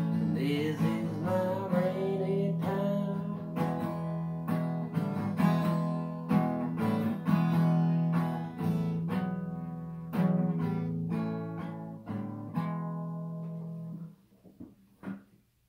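Acoustic guitar playing the closing bars of a song, with a last sung note held and bending at the start. The guitar ends about 14 seconds in and rings out, followed by a few faint clicks.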